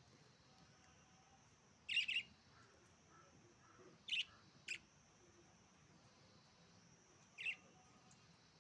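Pet budgerigars giving a few short, high chirps in three brief bursts, two of them doubled.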